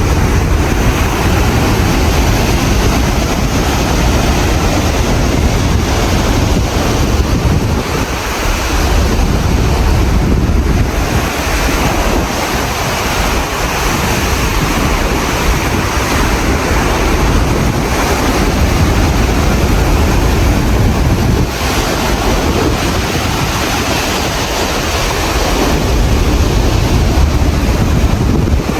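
Wind blasting across the microphone over rough seas, a loud steady rush with a heavy low rumble that eases briefly a few times.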